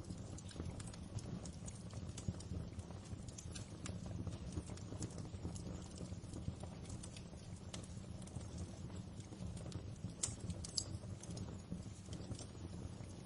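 Wood fire crackling in a fireplace: a steady low rumble of flames with irregular sharp pops and snaps, a few louder pops around two seconds in and near ten seconds in.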